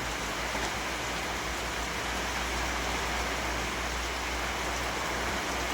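Heavy rain falling steadily in a continuous hiss, with a low rumble underneath.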